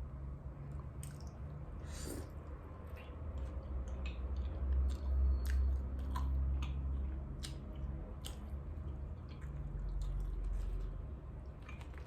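Close-miked chewing and mouth sounds of someone eating a birria taco, with many short wet clicks and smacks at irregular moments. A steady low hum runs underneath.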